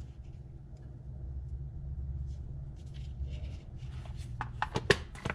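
Steady low hum, then a run of small sharp metal clicks and taps from hand tools working a wire connector, the loudest near the end.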